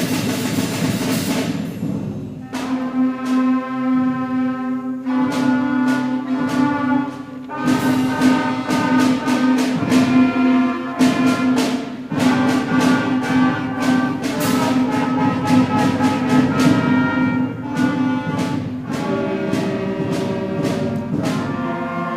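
School concert band playing a piece in 3/4 time: sustained wind chords punctuated by repeated percussion strikes. A bright cymbal wash at the start dies away about a second and a half in.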